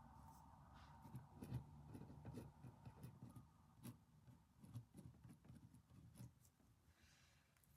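Near silence, with faint irregular clicks and taps from desk work.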